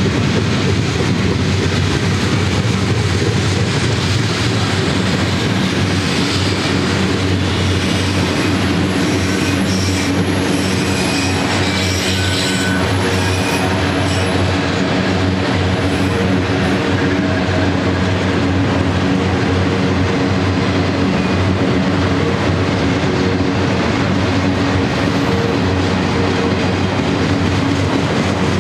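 Freight cars, mostly autoracks, rolling past on steel rails: a steady rumble of wheels on track. Thin high-pitched wheel squeals come and go through the middle of the stretch.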